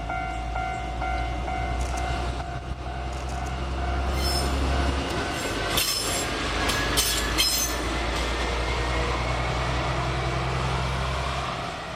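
Diesel locomotive moving freight wagons on a siding, its engine running low and steady. Wheels squeal and clank about halfway through. A repeating pulsed tone sounds near the start.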